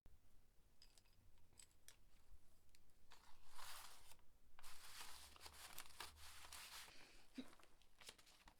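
Faint rustling and scraping noises over a low room hum, thickest in the middle of the stretch.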